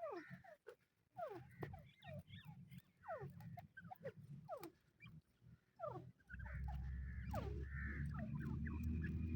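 Francolin (teetar) calling: a rapid string of short, sharply downward-sliding notes, one or two a second. A low rumble joins about two-thirds of the way through and is the loudest sound from then on.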